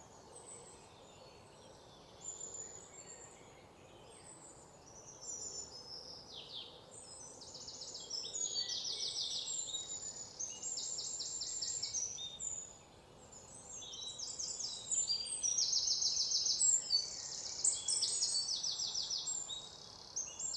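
Birds chirping and singing in high, rapid trills and short falling calls over a faint steady background hiss. The calls grow louder and more frequent in the second half.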